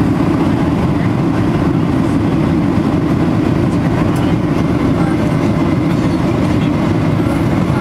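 Airplane noise: a steady, loud low rumble that holds without change.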